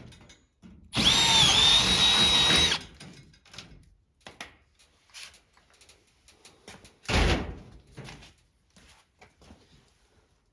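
Cordless drill running for about two seconds, its whine dipping briefly as it loads up while working the plastic rocker panel. Then a few light knocks and one heavy thump about seven seconds in.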